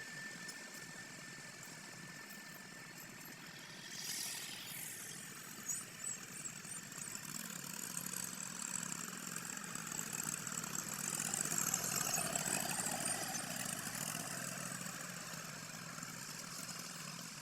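Tractor engine running, with a brief rush of noise about four seconds in; the engine grows louder from about seven seconds and is loudest a few seconds before the end.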